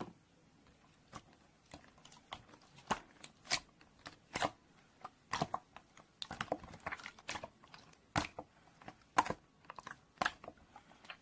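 Slime being squished and poked by hand, making irregular sticky clicks and crackling pops, a few a second.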